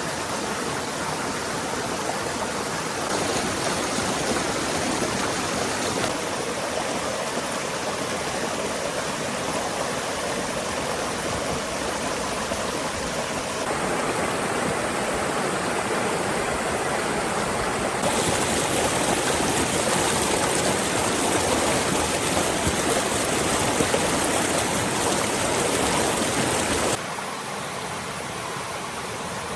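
Flowing stream water rushing steadily, its level and tone jumping abruptly several times.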